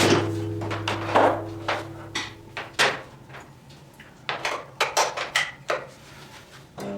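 A series of light clicks and knocks, like a microwave oven's door and controls being worked. Near the end, the microwave switches on and runs with a steady low hum.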